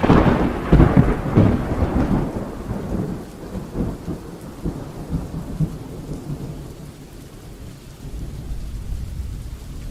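Thunder rumbling over heavy rain: a crackling peal, loudest in the first two seconds, dies away into a long low rumble, and a further low rumble swells near the end while the rain hiss runs on.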